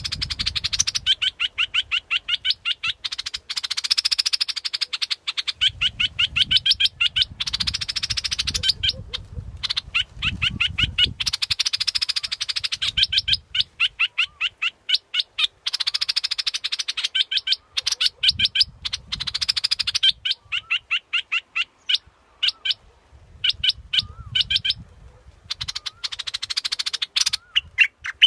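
Bulbul (Thai 'nok dok taeng') calling: fast runs of sharp repeated notes, about eight a second, in phrases of a few seconds with short breaks between them. It is a recorded decoy call, the kind played to lure wild birds.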